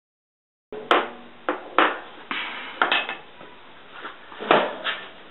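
Steel body dolly used as a hammer, striking a dented steel car fender that is backed by a second dolly: about seven sharp metallic blows at irregular spacing, each ringing briefly, as dents are knocked out. The sound starts abruptly under a second in.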